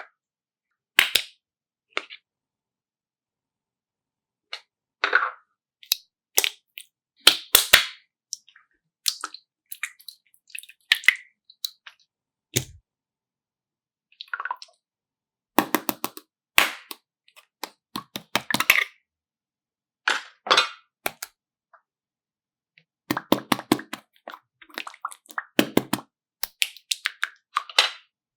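Clusters of short, sharp clicks and crackles from objects being handled, separated by stretches of dead silence.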